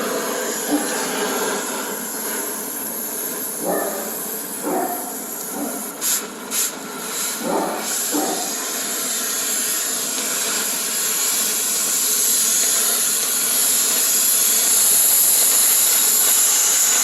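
Cutting torch hissing steadily while cutting through the seized bolts of a truck's rear bumper. The hiss breaks off briefly about six seconds in, then resumes louder, with a few short knocks in between.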